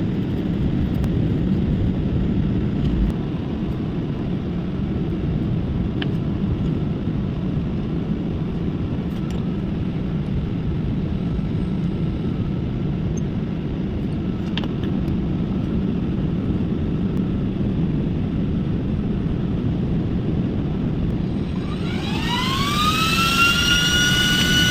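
Small electric fan running with a steady rush of air and a few faint clicks. Near the end its motor whine rises in pitch and levels off as the temperature-controlled fan speeds up.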